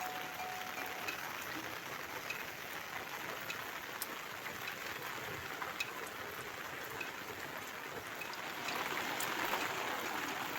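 Steady monsoon rain falling, with scattered sharp taps of drops hitting surfaces; it gets a little louder near the end.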